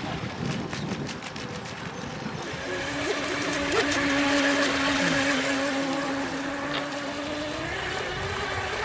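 Radio-controlled model boat's motor running on the water: a steady whine that grows louder as the boat comes close, then rises in pitch near the end.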